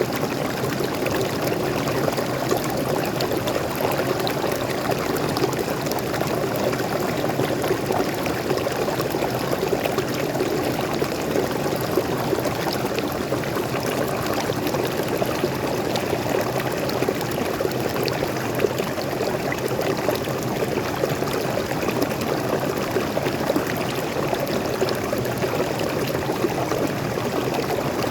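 Small waterfall and stream: water pouring and splashing over rocks in a steady rush.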